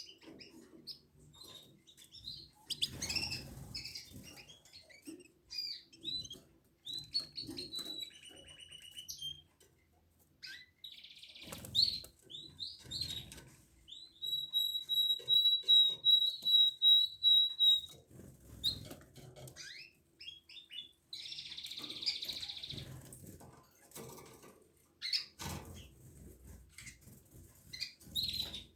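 Domestic canaries chirping and calling, with one trill held for about four seconds in the middle. Bursts of wing flapping and rustling come in between.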